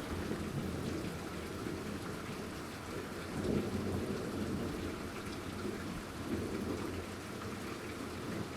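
Heavy rain pouring steadily in a severe thunderstorm, with low thunder rumbles swelling about three and a half seconds in and again a few seconds later.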